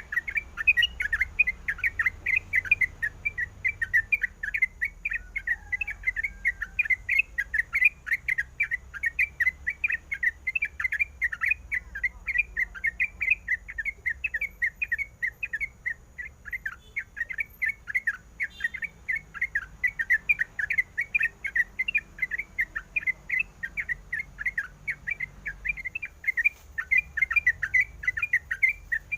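Yellow-vented bulbul (trucukan) calling in a fast, unbroken chatter of short, sharp chirps, several a second.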